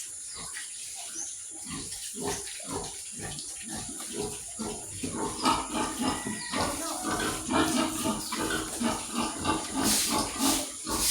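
Pigs grunting, with the calls getting louder and busier about five seconds in.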